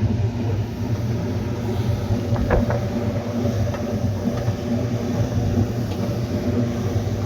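A motor running steadily with an even hum, with a couple of short knocks about two and a half seconds in.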